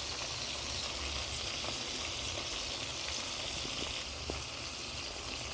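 Chicken frying in hot oil in a pan: a steady sizzling hiss with a few faint pops.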